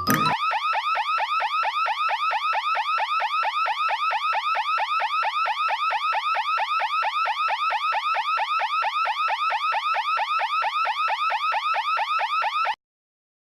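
Electronic alarm sounding: a rapid, steady series of rising whoops, about five a second, that cuts off suddenly near the end.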